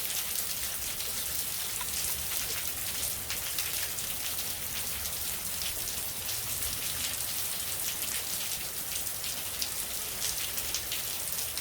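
Steady rain falling: an even hiss dotted with many fine drop ticks.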